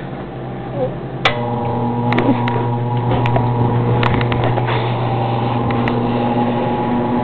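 A switch clicks about a second in, then the 1950s Knapp-Monarch air circulator's electric motor hums and spins up, growing louder over a second or so and then running steadily with a few light ticks. It runs on low speed, because its two-speed switch is broken.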